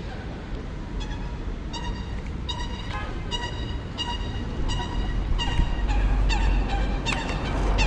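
A waterbird honking, a string of nasal calls about every two-thirds of a second that quicken near the end, over wind rumbling on the microphone.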